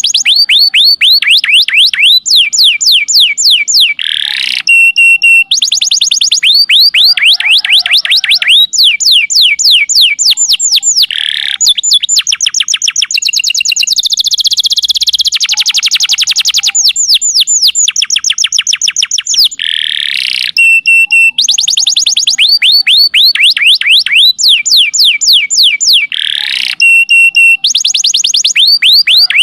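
Domestic canary singing loudly and without a break: long runs of fast trilled chirps, short held whistled notes and rolling phrases, the same phrases coming back again and again.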